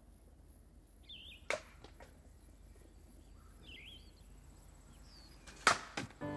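Birds chirping now and then over a faint background hiss. A sharp knock about a second and a half in and a louder one near the end, each followed by a smaller one, cut through it.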